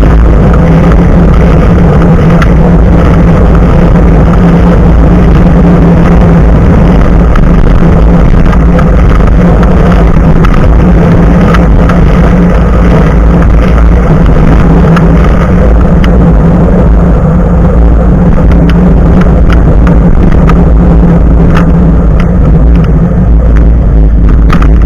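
Rolling bicycle picked up by an action camera mounted just above the front tyre: loud, steady wind and tyre-on-road noise with a low hum, broken by frequent small clicks and rattles from bumps.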